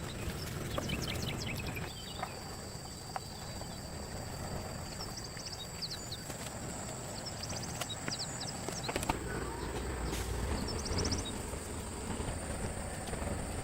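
Outdoor ambience: a steady high insect drone, with a few short bursts of quick high bird chirps and some low rumble.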